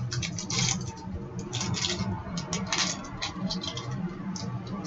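Trading cards and foil card packs being handled: irregular light clicks, slaps and crinkles, over a low steady hum.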